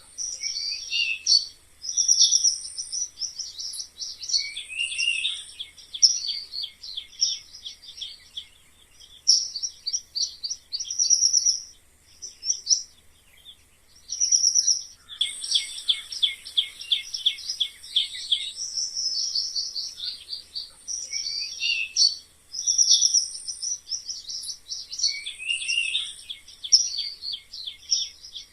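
Mice squeaking: runs of rapid, high-pitched chirping squeaks, each a second or two long, with short pauses between them.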